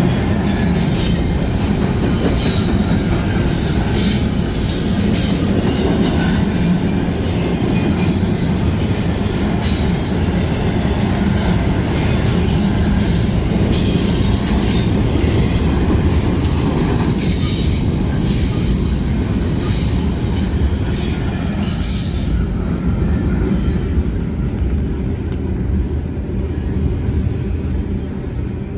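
Intermodal freight cars rolling past, their steel wheels rumbling on the rails with scattered high-pitched wheel squeal. About three-quarters of the way through the squeal dies away and the rumble carries on, easing slightly near the end.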